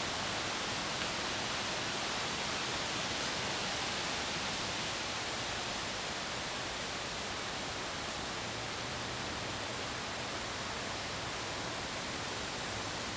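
Steady rush of flowing water, an even hiss without a break.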